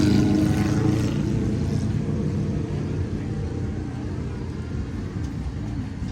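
A motor vehicle's engine running close by, its low drone slowly fading away, with faint background voices.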